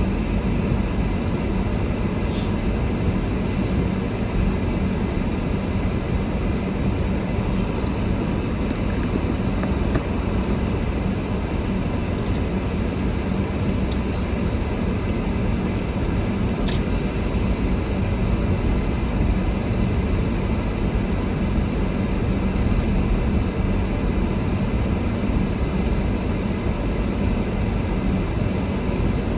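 Steady rumble and hiss of a car driving, engine and tyre noise, with a few faint clicks.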